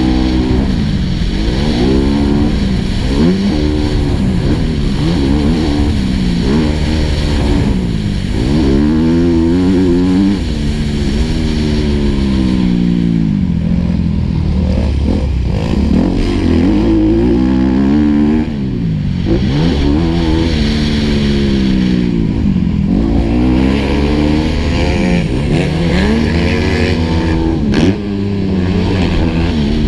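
Four-stroke motocross bike engine heard on board, revving up and easing off again and again as the rider accelerates, shifts and slows for turns. The engine dips briefly near the end before picking up again.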